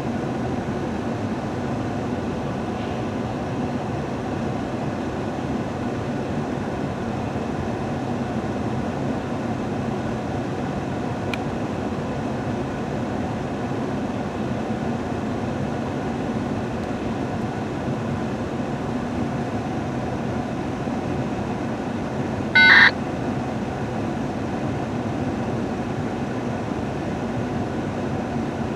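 Diesel freight locomotives idling with a steady rumble. About three-quarters of the way through comes one short, loud high-pitched blip.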